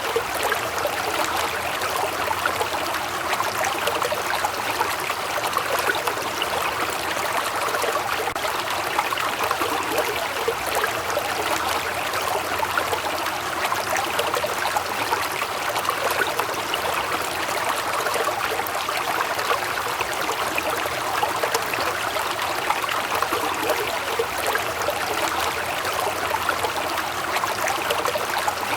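Waterfall, water falling and splashing in a steady rush that does not change.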